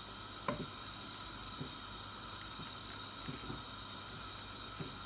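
Hand masher pressing boiled potatoes: a few soft, dull thuds at irregular intervals over a steady background hiss.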